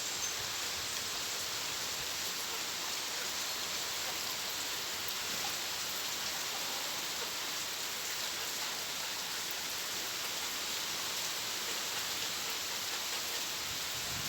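Steady rain falling and spattering on surfaces, an even hiss that keeps up without let-up.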